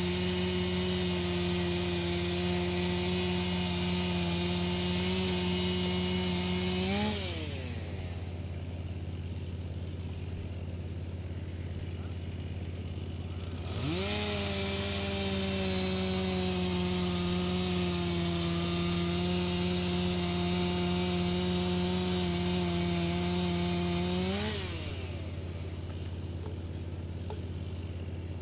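Wood chipper running under a steady low engine drone. Twice a higher whine comes in, holds with its pitch sagging slowly, then briefly rises and falls away: about seven seconds in, and again after a ten-second whine that starts about halfway through.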